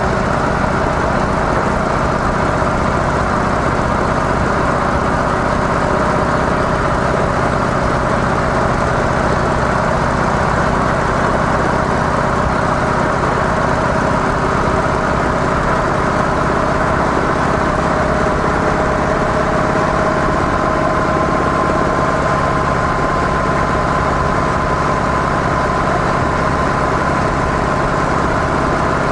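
Harley-Davidson CVO Softail Deluxe's air-cooled V-twin running steadily through its stock mufflers.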